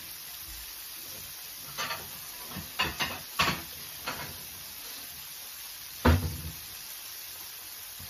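Whole chicken frying in oil in a frying pan: steady sizzling, with a few sharp clicks a couple of seconds in and a louder thump about six seconds in.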